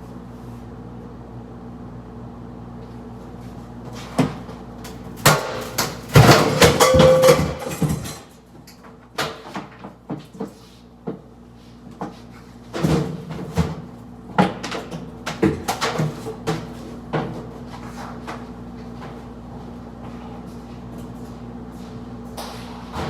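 Knocks, bumps and a dense burst of clattering, then scattered single knocks, as an old bracket-mounted microwave is worked loose and handled, over a steady low hum.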